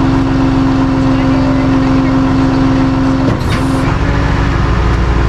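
Vehicle engine running steadily; about three and a half seconds in its note drops and settles into a lower hum.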